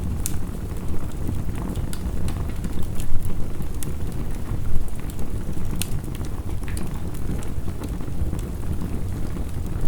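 Wood fire crackling and popping with irregular sharp snaps, over a steady low rush of heavy rain.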